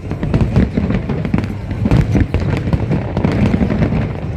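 Fireworks display: a dense, continuous run of overlapping bangs and crackles over a deep rumble.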